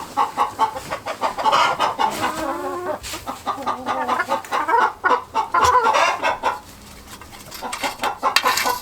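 Chickens clucking continuously in quick, overlapping calls, with a brief lull about seven seconds in.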